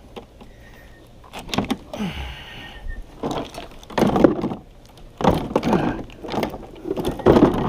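Hard plastic parts of a watermaker membrane case being handled: knocks, scrapes and creaks while the tie straps that hold the unit to its case are fitted.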